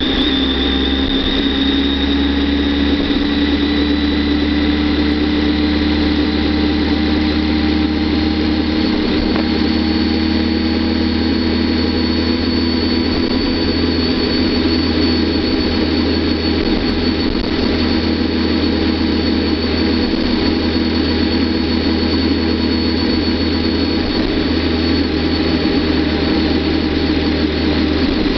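Kawasaki ZX-10R's inline-four engine running steadily at low road speed, its pitch rising slowly, with a thin high whine over it.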